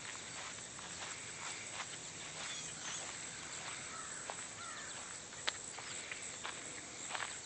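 Scattered short chirps and calls from a large flock of blackbirds over a steady outdoor hiss, with one sharp click about five and a half seconds in.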